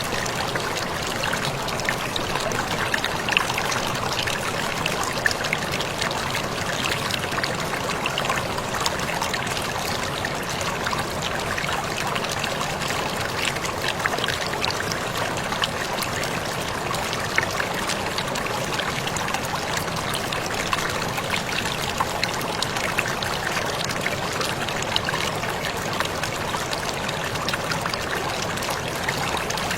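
Waterfall splashing steadily: a constant rush of falling water with many small splashes and drips through it.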